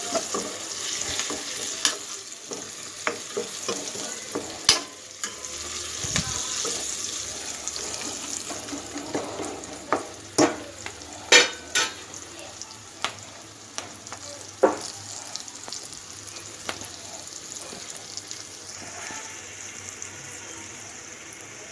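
Onions and green chillies sizzling as they fry in oil in a pan, with a steady hiss, while a utensil stirs them and now and then clicks and knocks against the pan.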